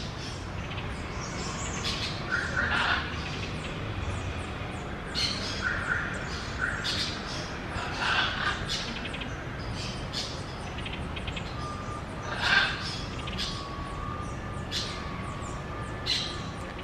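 Parakeet giving harsh squawking calls, short and sudden, repeated every second or few, with lighter chirps between them.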